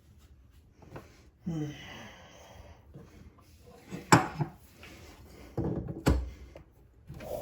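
Knocks and clunks from handling under a sink: a scraping, wavering sound about a second and a half in, a sharp knock about four seconds in, and a heavier thump about six seconds in.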